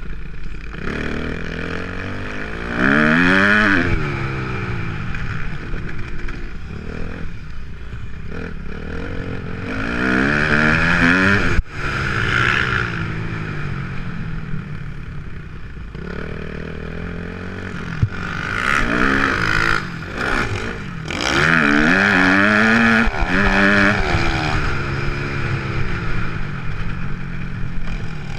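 Motocross motorcycle engines revving hard, pitch climbing and falling again and again as the throttle is worked, with a loud surge about three times.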